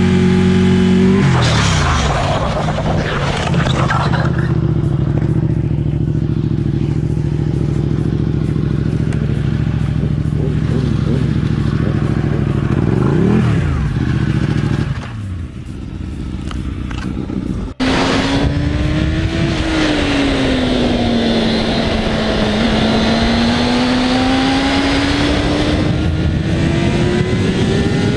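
Motorcycle engines running on the road, recorded on board. The first engine holds a steady pitch for most of its stretch, with a brief dip and recovery before the clip cuts out. After the cut, a second engine's pitch falls, then climbs steadily as it accelerates.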